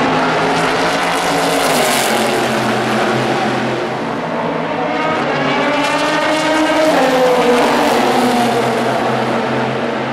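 Racing cars' engines at high revs as cars pass at speed, one after another. One car's engine note climbs, then drops sharply about seven seconds in.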